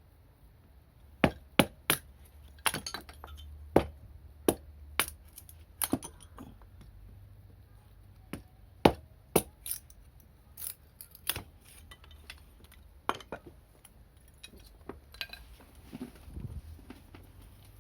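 A string of irregular, sharp clicks and knocks of hard objects: about two dozen, closest together in the first half, with a quieter stretch past the middle.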